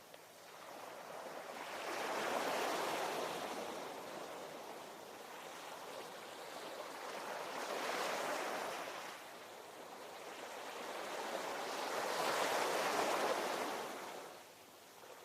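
Ocean waves breaking and washing in, three swells about five seconds apart, each rising to a peak and fading back.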